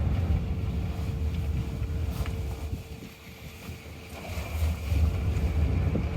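Low rumble of road and tyre noise inside the cabin of a Rivian R1T electric pickup on the move, with no engine sound. It eases off around the middle and builds again near the end.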